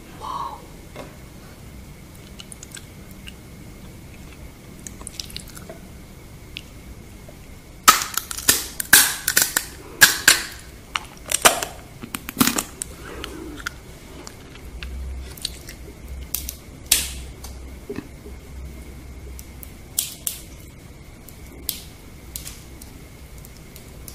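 Close-miked crisp crunching of a deep-fried scorpion being bitten and chewed: a run of loud crunches about eight seconds in, thinning out into occasional crackles.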